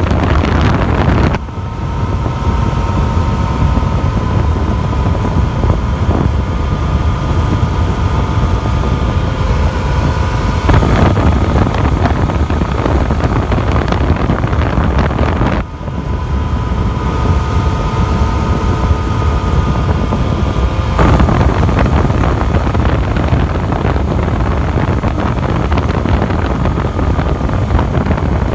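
Wind rushing over the microphone and the Yamaha FZ-09's inline three-cylinder engine on a motorcycle cruising at a steady speed of about 50 mph. The noise dips briefly twice, about a second and a half in and again about sixteen seconds in, and each dip is followed by a faint steady whine for several seconds.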